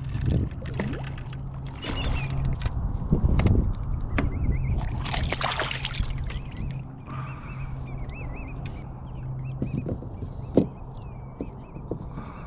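Water splashing and sloshing at the side of a kayak as a hooked redfish thrashes at the surface, the biggest splash about five seconds in. Birds call faintly in the second half over a low steady hum.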